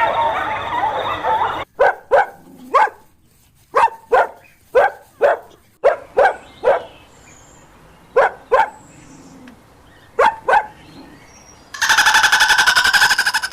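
A dog barking: about fifteen short, sharp barks, many in quick pairs, with pauses between. Before the barks comes a busy warbling chatter, and near the end a loud, rapid buzzing rattle cuts in.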